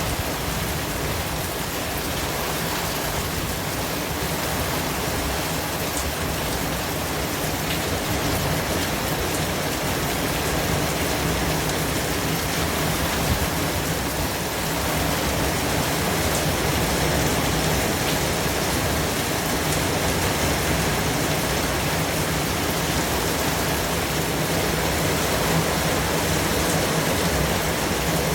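Steady white noise: an even, unbroken hiss that rises slightly in level about halfway through, with one faint click about 13 seconds in.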